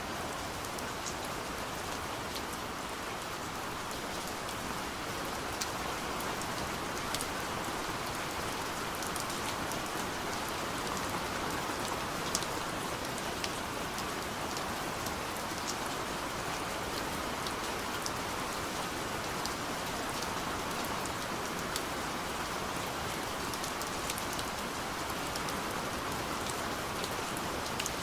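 Steady gentle rain falling on a window, a constant hiss with scattered sharp drop ticks.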